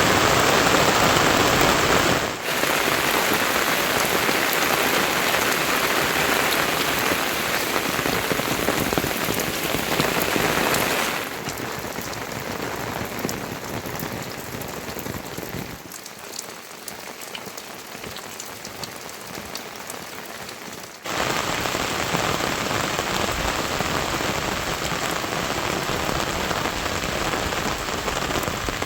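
Heavy monsoon rain falling, a steady hiss that shifts abruptly in loudness several times: quieter from about eleven seconds in, quietest around sixteen to twenty-one seconds, then louder again.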